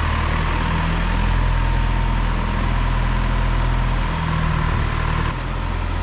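1974 John Deere 2030 tractor engine running steadily, its pitch wavering briefly about four seconds in; a second later the sound changes abruptly and the higher hiss drops away.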